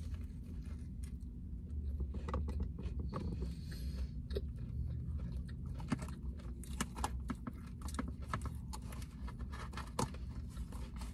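Close-up mouth sounds of eating a falafel pita sandwich. A bite at the start is followed by chewing with many small wet smacks and clicks, over a steady low hum.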